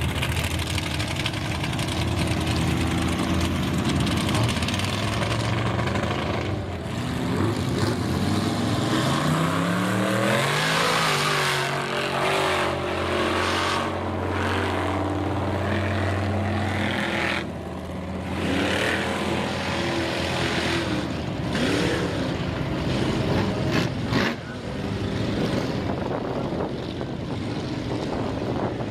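Mega mud truck engines with open headers revving hard in a mud pit, the engine note repeatedly rising and falling with short drops as the throttle lifts. A single sharp bang stands out near the end.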